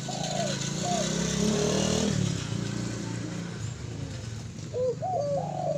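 A passing motor vehicle's engine running, loudest in the first two seconds and then fading, over a spotted dove cooing. The dove gives a few short arched coos at the start and a quick run of them near the end.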